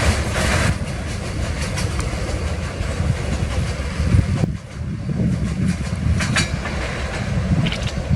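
Train wagons rolling past, with a heavy steady rumble and wheels clattering over the rail joints.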